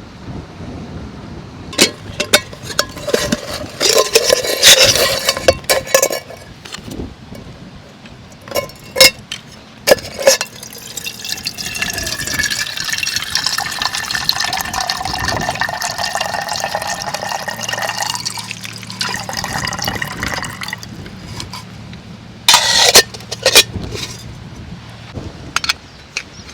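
Liquid being poured into a container for about ten seconds, its pitch rising as the container fills. Clinks and knocks come before the pour and again a couple of seconds after it.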